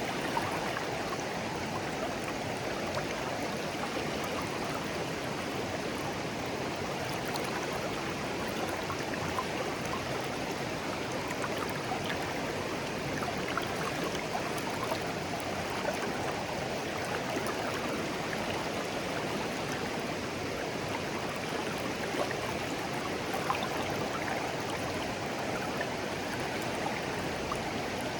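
Shallow clear stream flowing steadily over stones, a continuous babbling with small splashes and gurgles scattered through it.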